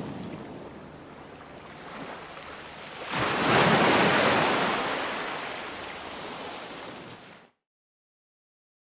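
Ocean waves breaking: a wave crashes about a third of the way in and slowly washes out, then the sound cuts off suddenly into silence near the end.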